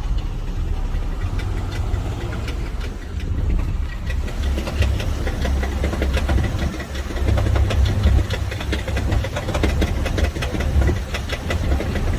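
Chrysler minivan idling with a loud crunching, knocking noise: rapid irregular ticks over a low engine rumble.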